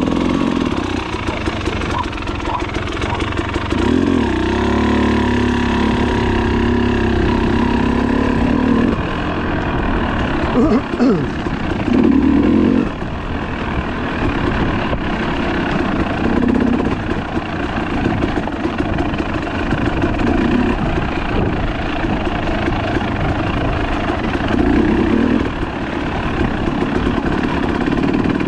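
Trail motorcycle engine running as it is ridden, the note rising and falling with the throttle several times.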